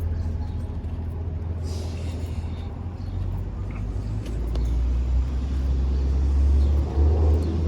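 A car driving by on a wet street: a low engine and tyre rumble that grows louder through the second half, with a brief hiss about two seconds in.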